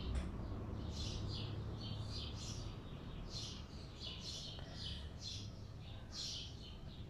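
A small bird chirping repeatedly, short high chirps about two a second, over a faint steady low hum.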